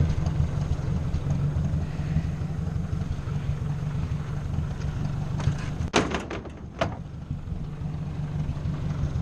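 Ford 600 tractor's four-cylinder engine running steadily, with two or three sharp knocks about six seconds in.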